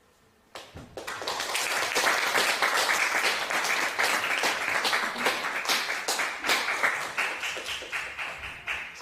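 Audience applauding, starting about half a second in, swelling quickly, then thinning to scattered claps and dying away near the end.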